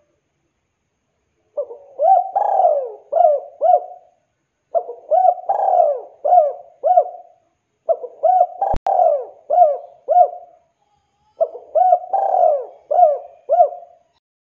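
Spotted dove (tekukur) cooing: four repeated phrases of several coos each, a few seconds apart. A single sharp click falls in the third phrase.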